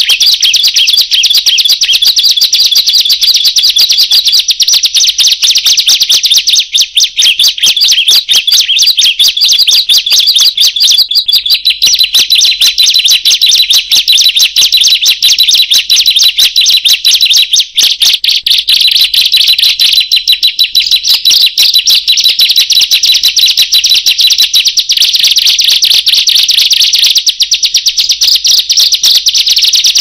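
Ciblek (bar-winged prinia) singing loudly in an unbroken run of rapid, high, shrill chirps, the phrasing changing a couple of times.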